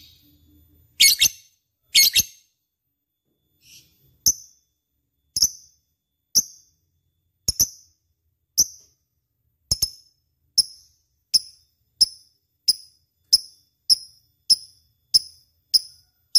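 Lovebird calling: two loud, harsh calls about a second and two seconds in, then a run of short, sharp, high-pitched chirps, about one a second at first and speeding up to nearly two a second in the second half.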